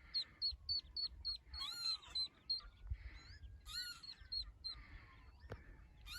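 Mallard ducklings peeping: a quick run of short, high, falling peeps at about four a second, then several louder, fuller calls.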